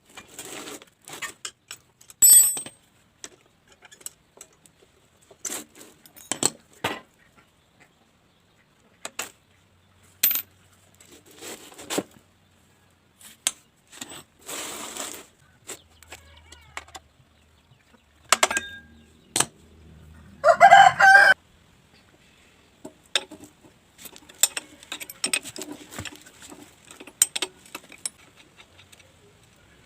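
Scattered metal clinks, knocks and short scrapes of hand-tool work on lawn mower parts, coming at uneven intervals. About two-thirds of the way through comes a short, loud pitched cry lasting under a second, the loudest sound here.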